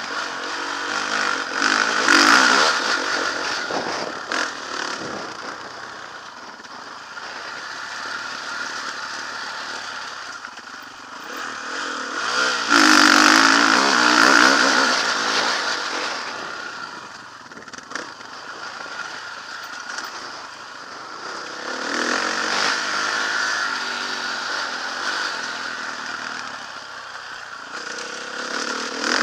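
Motocross bike engine revving hard and easing off over and over, with surges about two, thirteen and twenty-two seconds in.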